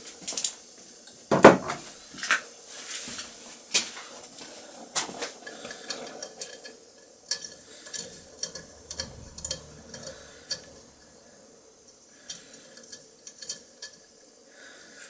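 Metal on metal as the antique iron's body is worked by hand: irregular clinks, taps and short scrapes. The loudest is a knock about one and a half seconds in, and the clinks grow sparser near the end.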